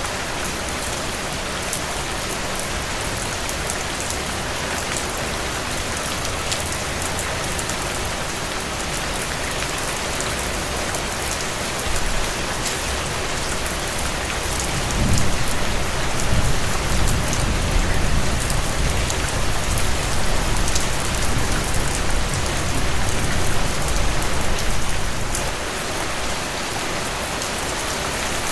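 Steady heavy rain falling on surfaces, with fine patter of individual drops. About halfway through, a low rumble swells up under the rain and rolls on for several seconds before fading.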